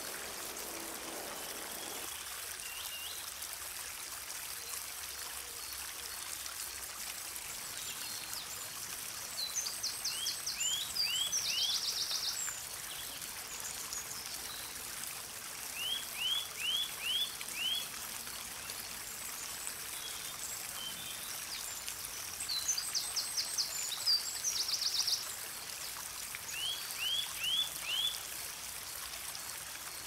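A songbird singing four short phrases, alternating between buzzy trills and runs of four or five quick slurred whistles, over a steady hiss of running water.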